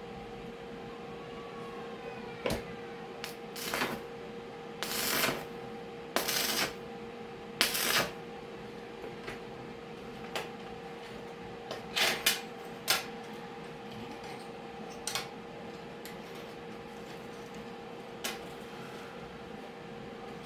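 Metal pieces clinking and knocking at irregular intervals, with a few short hissing bursts of about half a second, over a steady hum.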